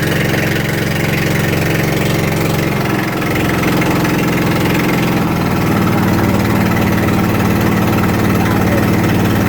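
Boat engine running steadily, its note shifting about three seconds in and again a little past halfway, slightly louder afterwards.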